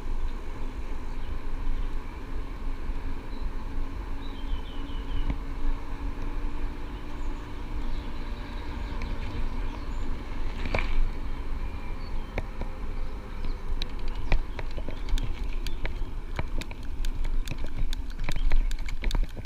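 Riding noise from an electric bike on a road: wind buffeting the microphone over tyre noise, with a faint steady hum and a run of sharp clicks and rattles in the last few seconds.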